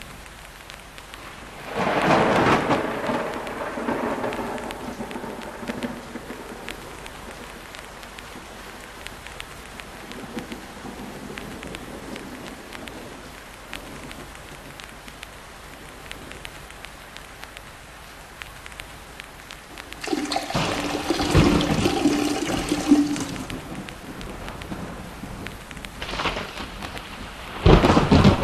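Steady rain with a fine patter of drops, broken by three loud rolls of thunder: one about two seconds in, a longer one around twenty seconds in, and another near the end.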